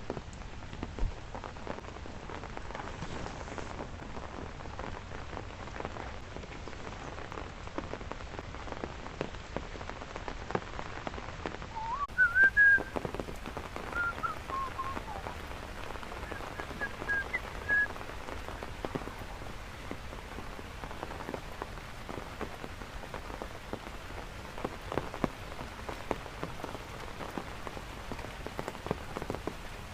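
Steady heavy rain falling, with many separate drops ticking. About twelve seconds in, a few high whistled notes rise and fall over several seconds.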